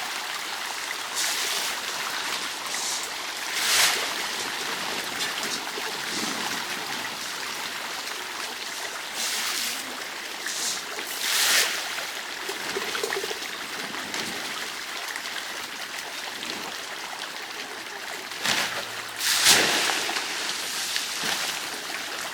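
Running water, a steady trickling flow with a few brief louder surges.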